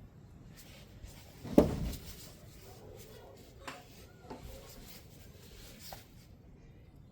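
Engine parts and tools being handled during reassembly: one loud metal clunk about a second and a half in, then a few light clicks and taps.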